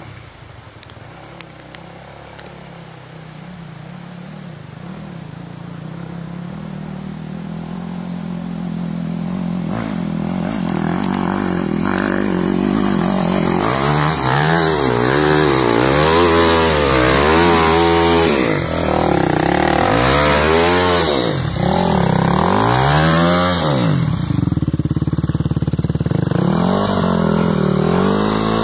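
Motorcycle engine growing steadily louder as it comes closer, then from about halfway revving up and down again and again under hard throttle as it labours up a steep climb.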